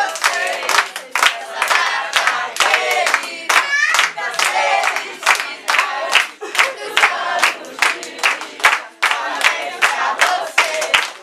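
A group of voices singing or chanting together, keeping time with rhythmic hand-clapping at about two claps a second.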